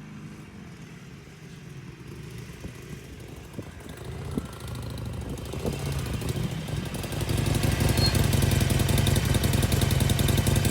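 Harley-Davidson Forty-Eight's 1200cc air-cooled V-twin running. It grows louder through the first half and, from about seven seconds in, runs loud and steady with a fast, even beat.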